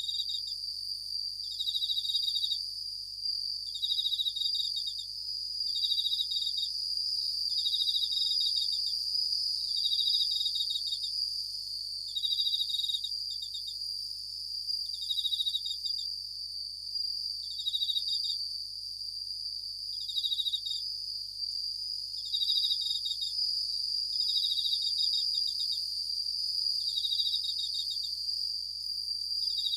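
Japanese bell cricket (suzumushi) singing: a high ringing trill repeated about every two seconds, each phrase close to a second long. A steady high-pitched insect drone runs underneath.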